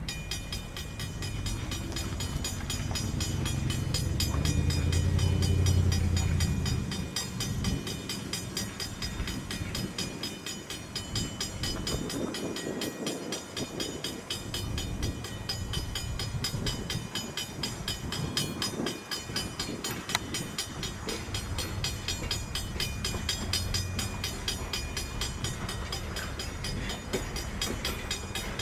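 A train passing: the Tangshan-built steam locomotive #3025 rumbles by, loudest about six seconds in. After it, the coaches roll past with a steady clatter of wheels on the rails.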